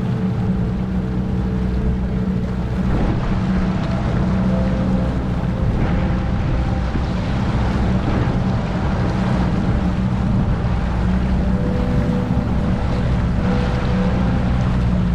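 Motorboat engine running steadily under way, a constant low hum with a rushing noise over it.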